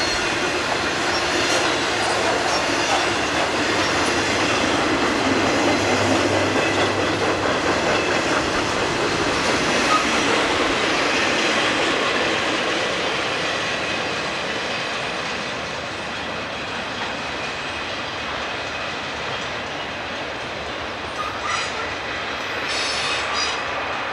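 Conrail intermodal freight train's trailer-on-flatcar cars rolling past, steel wheels running on the rails in a steady clatter. The sound eases somewhat in the second half, and a few sharp clicks come near the end.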